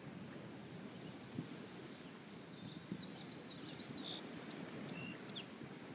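A small bird chirping a quick run of short, high notes over a low, steady outdoor rumble with a few soft thumps.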